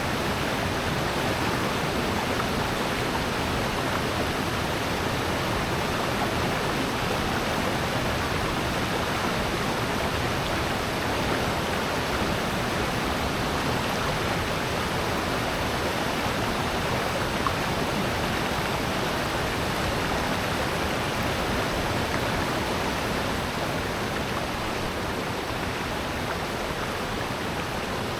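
Rushing water of a valley stream and waterfall, a steady, even rush with no breaks.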